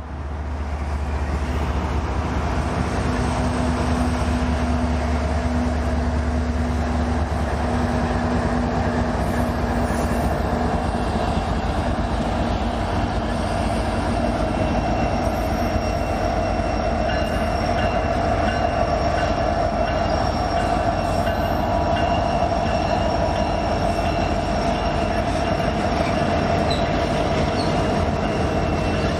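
Union Pacific freight train rolling by slowly. A deep diesel locomotive rumble dominates the first several seconds, then fades under the steady rolling of the freight cars, with a thin high wheel squeal.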